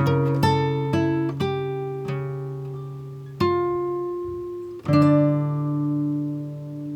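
Background music: slow acoustic guitar, single plucked notes and chords struck a few times and left to ring out.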